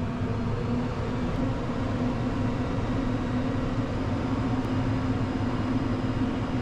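Diesel engine of a Bergmann C912s tracked dump truck running at a steady, even pitch under hydraulic load while the dump bed tips up to unload.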